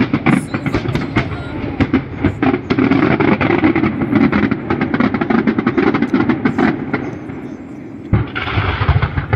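Fireworks going off in quick succession: a dense stream of sharp bangs and crackles over a steady rumble, with voices of onlookers underneath.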